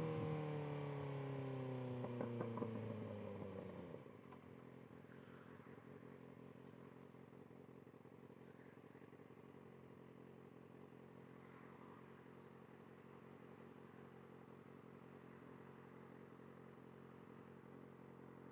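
Kawasaki ZX-6R inline-four engine winding down as the bike slows, its revs falling steadily with a few crackles, then dropping suddenly about four seconds in to a quiet, steady idle.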